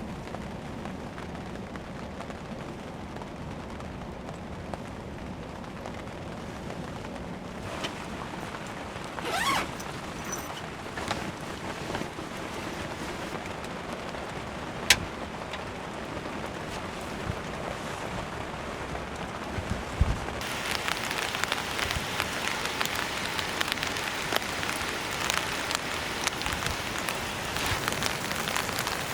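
Rain falling, a steady patter with scattered drop ticks and a single sharp click about halfway. About two-thirds of the way in the rain turns noticeably heavier and louder.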